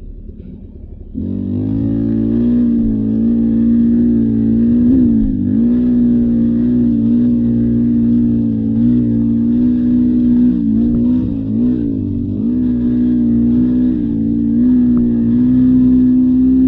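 Beta 300 RR dirt bike's single-cylinder two-stroke engine running loudly under steady throttle, coming in suddenly about a second in. The pitch holds mostly level, with a few brief dips as the throttle is rolled off and back on.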